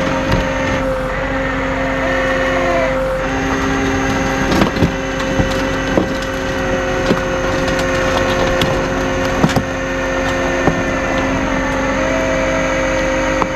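A heavy vehicle engine running steadily with a constant high whine over it, and a scatter of sharp knocks and cracks from about four and a half to eleven seconds in.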